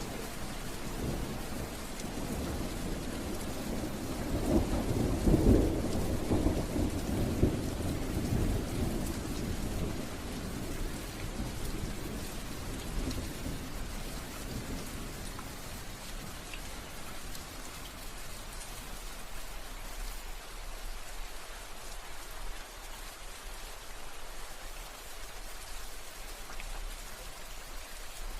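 Steady rain falling, with a roll of thunder that builds a few seconds in, rumbles loudest for several seconds and then dies away, leaving only the rain hiss for the second half.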